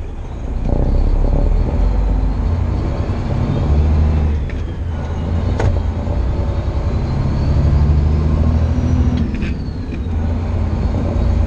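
Heavily loaded semi truck's diesel engine pulling up a hill, heard from inside the cab. Its low drone surges about a second in, then dips and picks up again twice, with a few sharp clicks.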